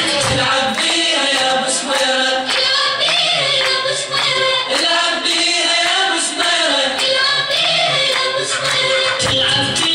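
Several voices singing together in a choir-like passage of a song, with little accompaniment underneath; the fuller backing with its low end comes back in near the end.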